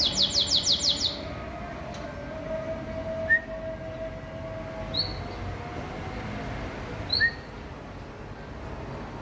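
Songbird calling: a quick trill of about seven falling high notes at the start, then single short rising chirps every couple of seconds.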